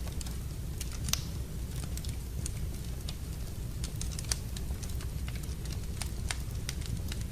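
Wood fire burning in a fireplace: irregular sharp crackles and pops over a steady low rumble of the flames, with louder pops just over a second in and a little after four seconds.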